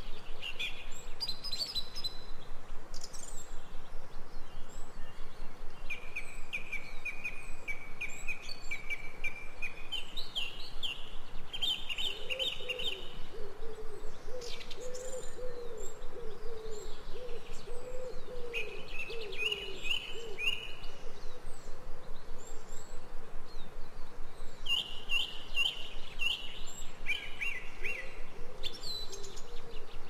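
Forest songbirds singing: several bursts of quick trilled phrases, with a lower wavering bird call underneath for several seconds in the middle.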